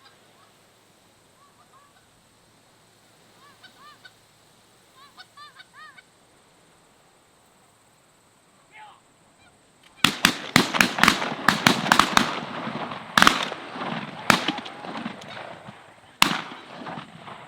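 Canada geese honking as a flock comes in, faint at first and then loud. From about ten seconds in a volley of shotgun blasts fires off in quick succession, followed by a few spaced single shots among the honking.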